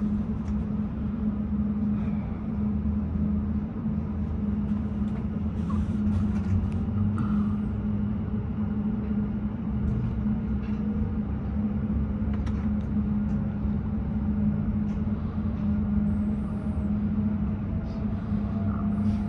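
Inside a moving passenger train: the steady hum and low rumble of the train running along the track, with a faint whine that rises slowly in pitch from about halfway through as the train gathers speed, and a few light clicks and creaks.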